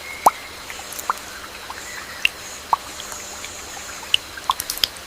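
Water drops plopping into water, a handful of irregular plinks with the loudest just after the start, over a steady background of jungle hiss and faint chirps.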